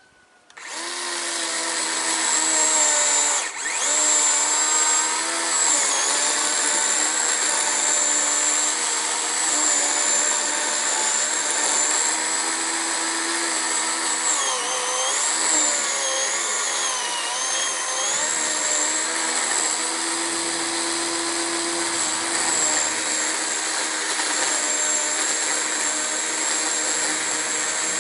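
Chainsaw starting up about half a second in and running at full speed while cutting into a tree limb, its pitch sagging briefly several times as the chain bites into the wood.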